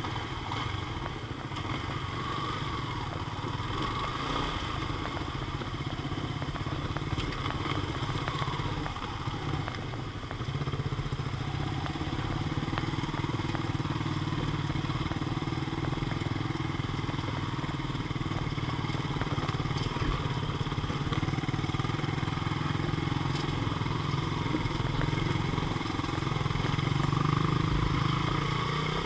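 Yamaha Sniper underbone motorcycle's single-cylinder four-stroke engine running steadily while riding slowly over a dirt trail, a little louder from about eleven seconds in.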